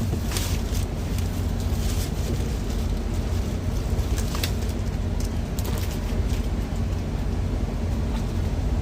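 Steady low rumble of the idling truck's engine, with mushrooms sizzling in a frying pan and a few light clicks of utensils.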